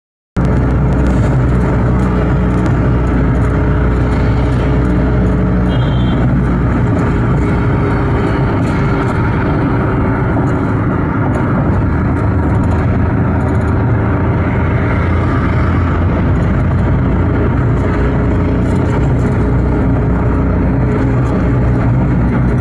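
Motor vehicle on the move: a steady engine hum under continuous road noise, with no change in speed.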